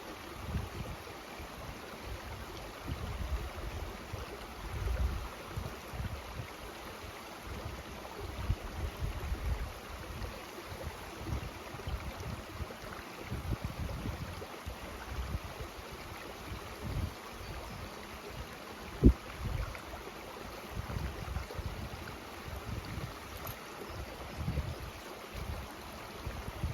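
Mountain stream rushing steadily, with wind buffeting the microphone in low gusts. A single sharp knock about two-thirds of the way through.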